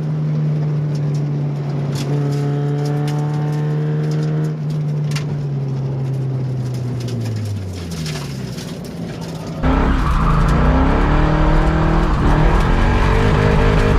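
Car engine on a race track held at steady revs, its revs dropping away after about seven seconds. Then, about ten seconds in, a sudden louder stretch of engine revving up and down.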